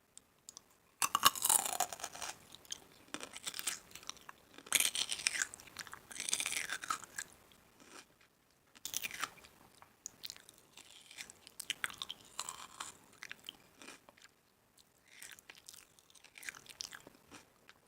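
Close-miked chewing and crunching of food, in irregular bites every second or two.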